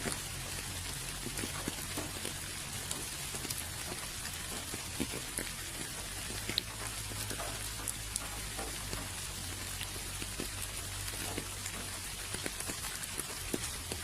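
Steady rain falling, a continuous hiss dotted with the ticks of individual drops, over a faint low hum.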